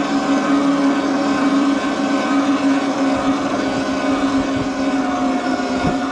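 Electric bike under way: a steady motor hum over tyre and wind noise, with a brief low bump near the end.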